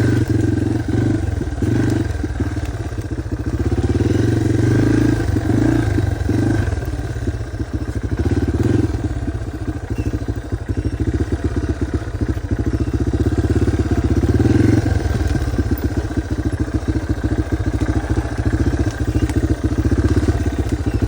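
Dirt bike engine running under the rider's changing throttle, rising and falling. It is loudest about four seconds in, again around nine seconds, and near fifteen seconds.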